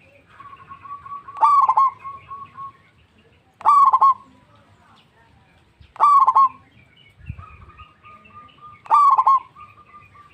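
Zebra dove (perkutut) cooing: four loud, short bursts of its rolling call about every two to three seconds, with fainter, drawn-out cooing between them.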